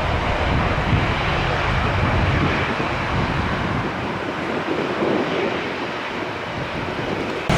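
Jet airliner noise with wind buffeting the microphone. The low rumble eases about halfway through, and the sound cuts off abruptly near the end.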